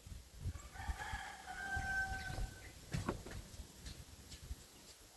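A single long, held animal call lasting about two seconds, over low irregular thumps.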